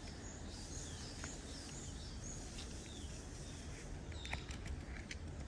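A small bird repeats a short high chirp about twice a second for the first couple of seconds, over a faint steady outdoor background rumble. A few faint clicks follow later.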